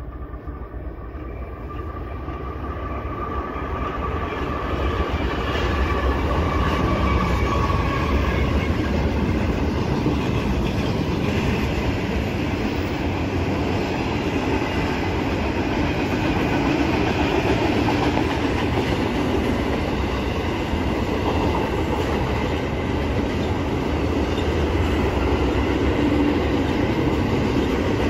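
Diesel-hauled double-stack container freight train approaching, growing louder over the first few seconds as the head end passes. Then a long string of container cars rolls by with a steady rumble and clickety-clack of wheels over the rail joints.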